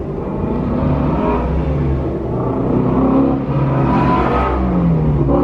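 A car engine running and revving, its note rising and falling, with a falling pitch near the end.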